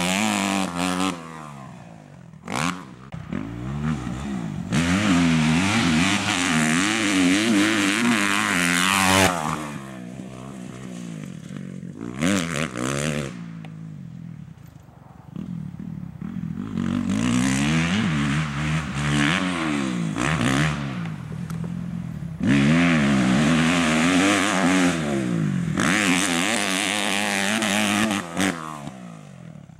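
Kawasaki KX250F four-stroke single-cylinder motocross engine revving hard and rising and falling in pitch through the gears, with loud full-throttle runs broken by quieter off-throttle stretches.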